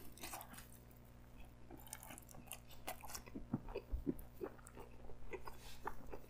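Close-miked chewing of a slice of pepperoni pizza with ranch: a run of small, irregular mouth clicks and bites.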